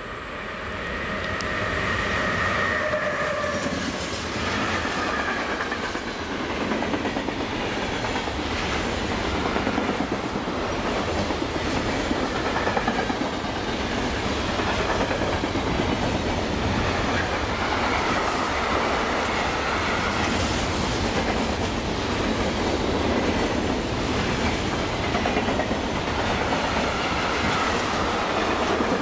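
Electric locomotive passing close with a high whine that drops slightly in pitch in the first few seconds, followed by a long container freight train rolling by: steady rumble and rhythmic clickety-clack of the wagon wheels over rail joints, with a faint high wheel squeal now and then on the curve.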